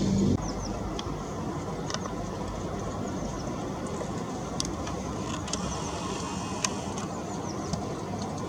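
Steady low rumble of road traffic, with short high bird chirps every second or so.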